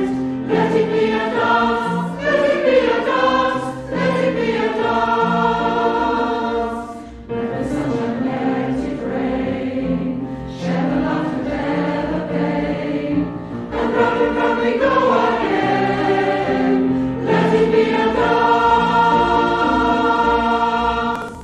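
A choir singing a hymn together in sustained, stepwise phrases.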